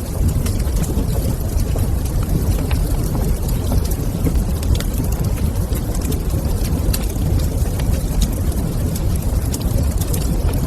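Wood fire in a fireplace crackling, with small irregular pops over a steady low roar.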